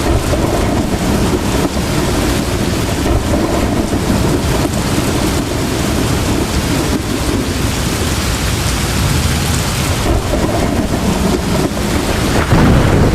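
Heavy rain pouring steadily in a thunderstorm, with a low rumble of thunder underneath; the rumble swells louder near the end.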